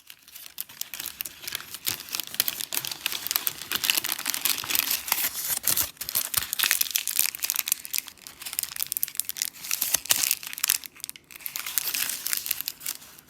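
Crinkling and rustling of paper or plastic packaging being handled, in a dense, irregular crackle.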